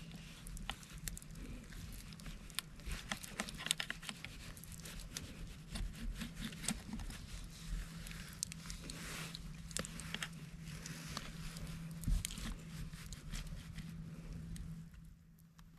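Wet leaf litter and mud being scraped and dug through by hand at a crab burrow: irregular crackles, small sharp clicks and scrapes over a steady low hum, which fade out near the end.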